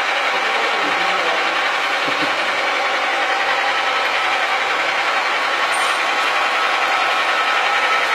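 Horizontal milling machine running steadily, an even mechanical noise with a few constant tones and no change in speed.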